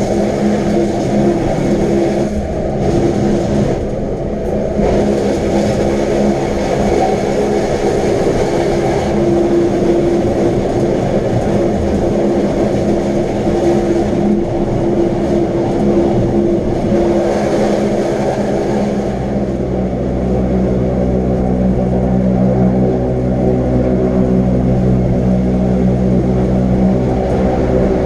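Electric rack-railway train running, a steady motor hum with several held tones over rumbling running noise; the hum deepens and steadies about two-thirds of the way through.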